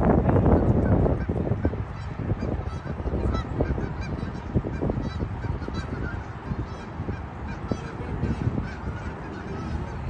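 A flock of Canada geese honking, with many short honks overlapping one another, loudest in the first second or so.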